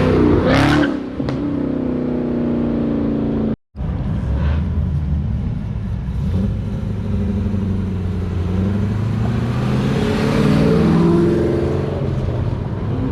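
Car engine revving and accelerating hard, its exhaust note rising and falling in pitch. The sound cuts out completely for a moment about four seconds in.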